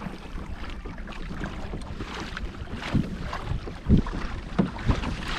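Wind buffeting the microphone on a kayak out on the water, with a few sharp knocks in the second half.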